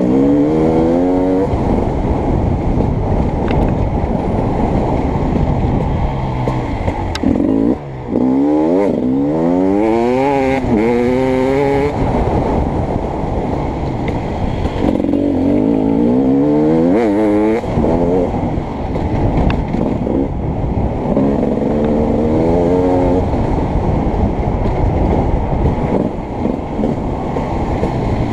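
Beta 300RX two-stroke dirt bike engine being ridden hard, its pitch repeatedly climbing and falling with throttle and gear changes. About eight seconds in the throttle chops off briefly, then the engine revs up in several steep rising sweeps.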